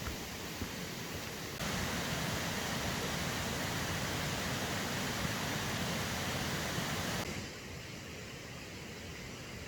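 Steady rushing of a river or mountain stream. It jumps louder about a second and a half in and drops back abruptly near the end.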